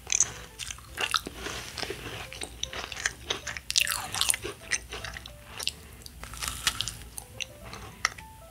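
A bite into a macaron, followed by chewing with crisp crunches of the shell.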